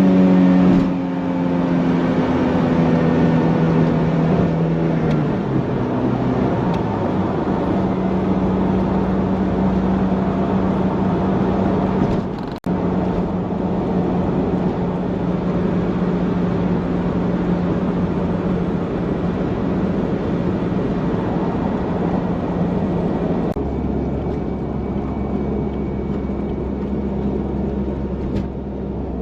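Turbocharged 180SX Sileighty engine breathing through a Blitz aftermarket muffler, its revs falling back after a blip over the first few seconds, then idling steadily. There is a brief dropout about halfway through, and a deeper, steadier hum in the last several seconds.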